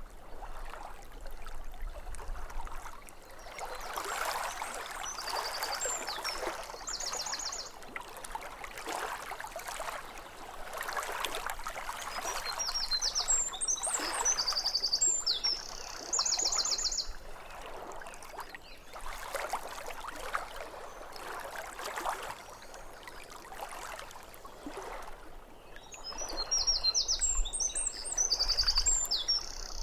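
Small waves lapping at a lakeshore in soft, repeated swells, with a songbird singing three times: twittering phrases that each end in a fast high trill.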